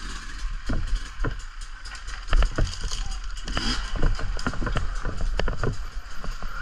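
Riding noise picked up by an off-road bike's camera on a muddy trail: wind and tyre rush with frequent sharp knocks and rattles as the bike jolts over rough ground.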